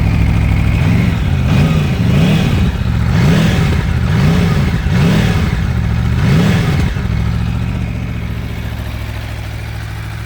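Aprilia Tuono V4 Factory's V4 engine, warm after a cold start, being revved in about six quick throttle blips, each rising and falling in pitch, then dropping back to a steady idle about seven seconds in.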